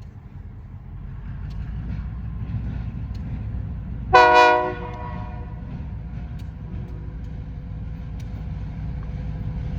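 Diesel locomotive horn giving one short chord blast about four seconds in, over the steady low rumble of the approaching train.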